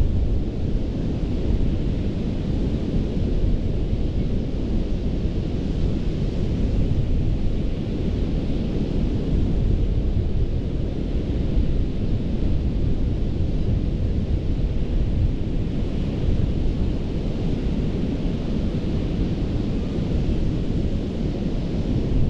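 Gulf of Mexico surf breaking and washing continuously on a sandy beach, a steady rushing hiss that swells and eases every few seconds over a deep low rumble.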